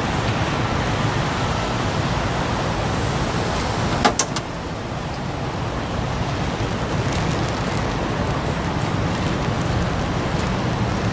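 Steady road and engine noise of a car driving, with a short sharp click about four seconds in.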